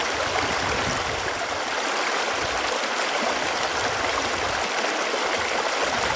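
Running water flowing steadily, a continuous even rush with a light gurgle.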